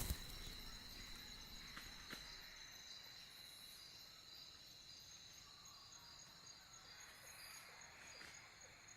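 Crickets and other night insects calling faintly: a steady high trill with an evenly pulsing chirp a few times a second.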